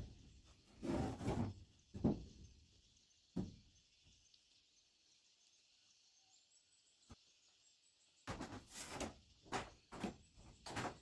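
Irregular knocks and scrapes of wooden pieces being handled and fitted, a few in the first half and a quick run of them near the end, over a steady high hiss.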